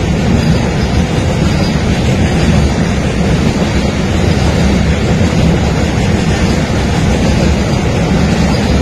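Double-stack container freight train running through at speed: a loud, steady rush of noise from the passing wagons.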